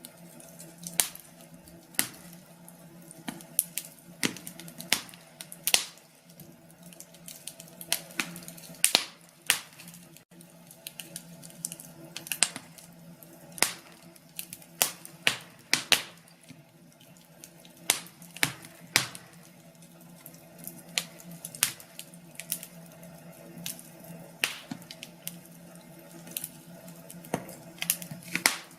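Wood fire in a fireplace crackling, with irregular sharp pops and snaps, sometimes several in quick succession, over a faint steady hum.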